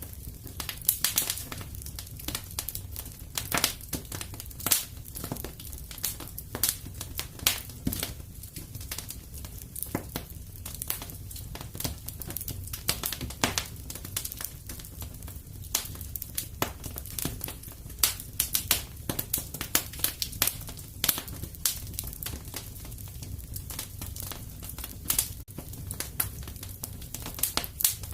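Fire crackling in a fireplace: irregular sharp pops, several a second, over a steady low rumble.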